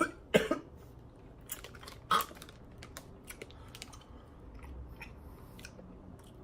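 A person eating candy: a cough right at the start and another short one about two seconds in, then quiet chewing with small scattered clicks.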